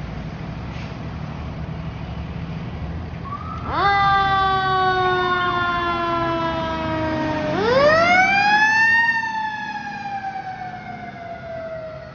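Fire truck siren sounding over a low road rumble. It cuts in about four seconds in and slides slowly down in pitch, then winds back up near eight seconds and falls slowly away again.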